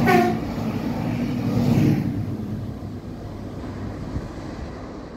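Two TER regional trains passing each other on a double-track line: a sharp burst as they cross, then the loud rush and rumble of wheels and bodies going by, which fades away after about two seconds as they draw off.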